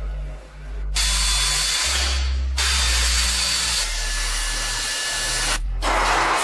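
Hissing, power-tool-like noise in three long stretches with short breaks between them, over a steady bass line of background music.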